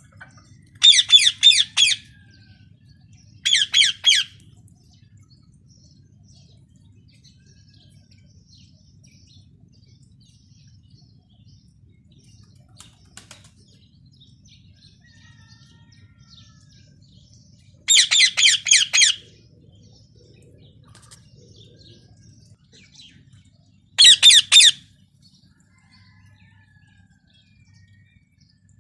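Parrot calling in four loud bursts of rapid, shrill repeated notes, each about a second long, with faint chirps in between over a low steady hum.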